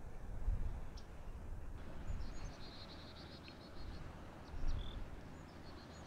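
A bird chirping in quick runs of high, repeated notes, starting about two seconds in and again near the end. Under it, a gusty low rumble of wind on the microphone, strongest at the start.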